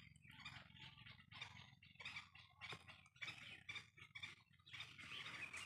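Near silence: faint ambience with scattered short chirps and ticks from chickens and birds feeding.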